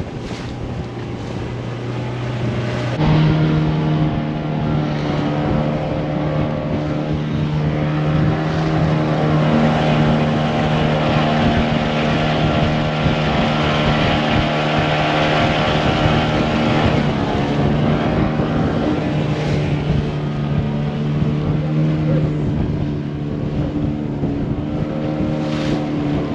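Motorboat engine running steadily under way, then speeding up about three seconds in to a higher, louder steady pitch that it holds.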